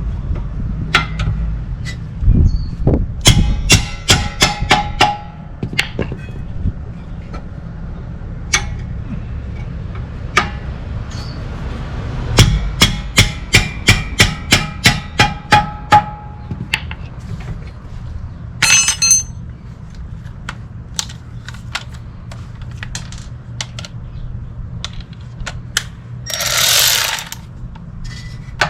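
Ratchet and socket working the rear brake caliper mount bolts: two runs of quick metallic clicks, about four a second, with scattered single clicks and tool knocks between. A brief hiss comes near the end.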